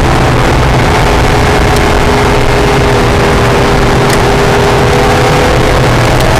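Acura NSX's mid-mounted V6 engine running at a held, slowly sagging pitch, heard from inside the cabin over heavy road and wind noise.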